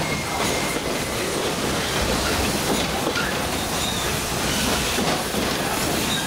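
Running noise of a narrow-gauge steam train heard from inside an open-sided passenger car rolling along the track: a steady rumble of wheels on rails.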